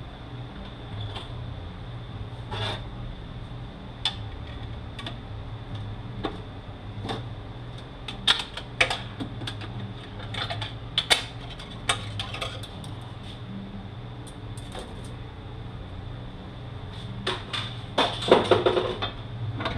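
Scattered sharp metal clicks and scrapes of a hand tool prying out the beveled snap ring that holds the drum inside a 5-45RFE transmission case, with a quicker, louder clatter of metal on metal near the end. A steady low hum runs underneath.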